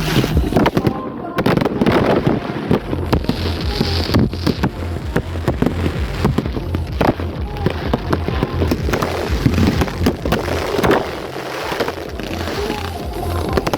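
Dense, irregular crackling and sharp popping, many cracks in quick succession, over a steady low hum and a murmur of voices.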